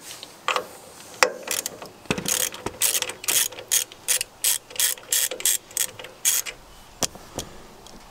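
Socket ratchet clicking in short bursts as it is worked back and forth, undoing bolts to take the carburetor off a small engine. The bursts come about two a second and stop shortly before the end.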